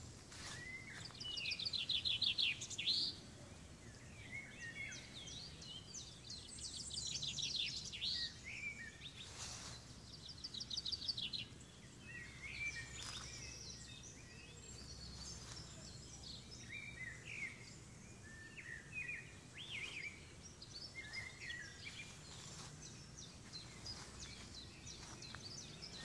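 Songbirds singing outdoors: short chirps and calls on and off throughout, with several rapid trills about two, seven and ten seconds in.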